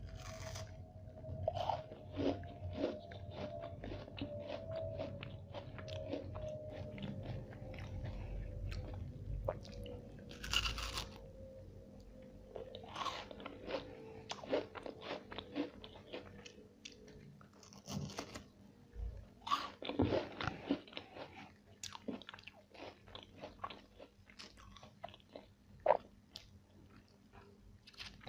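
Close-miked eating sounds: irregular crisp crunches and bites with chewing, the sharpest crunch near the end.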